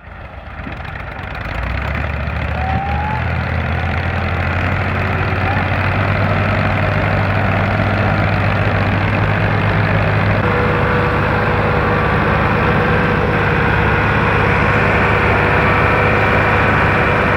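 Tractor diesel engine running steadily with a low, even hum, fading in over the first two seconds.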